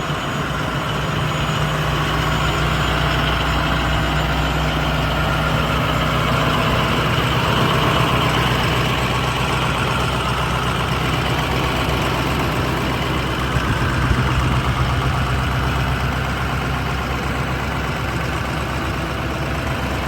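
2006 International 4200 bucket truck's diesel engine running steadily.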